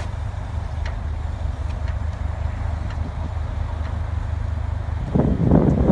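Wind buffeting the microphone: a steady low rumble, with a stronger gust near the end.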